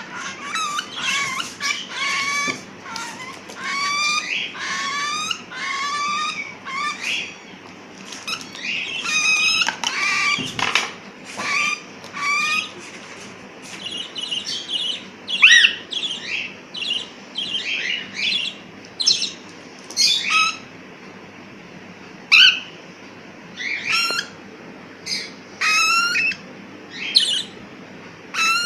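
Pet parrots (cockatiels and budgies) calling over and over in quick, wavering, raspy calls. The calls come close together for the first half, then become separate, sharper calls.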